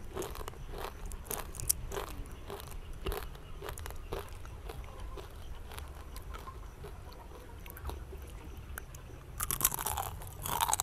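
Crisp fried banana chips being bitten and chewed close to the microphone. The crunches come about two a second at first and soften in the middle, then a louder run of crunching comes near the end.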